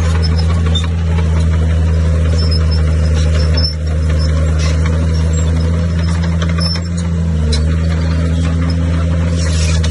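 Heavy diesel engine of earthmoving machinery running steadily, a loud low drone with two brief dips in level, about three and a half and seven seconds in, and a slight rise in pitch soon after the second.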